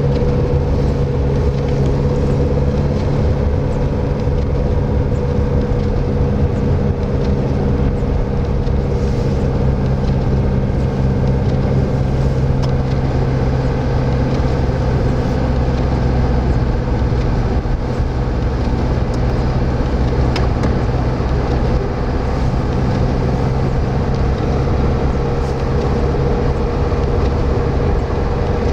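A vehicle's engine running steadily under way, its low hum held at an even pitch over constant road and wind noise.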